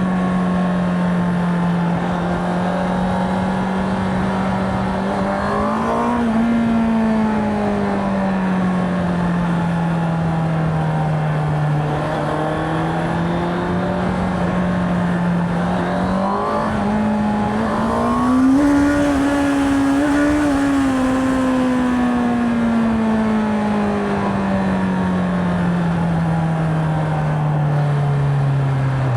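Motorcycle engine and exhaust running under way, the note climbing under throttle about six seconds in and again around sixteen to nineteen seconds, then sinking slowly as it eases off.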